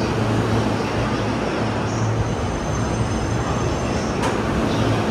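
E233 series electric commuter train running along the platform: a steady rumble of wheels on rail with a low, even hum underneath.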